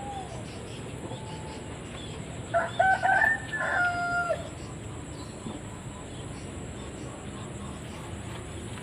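A rooster crowing once, a single cock-a-doodle-doo of about two seconds, starting a few seconds in and ending on a held, slightly falling note.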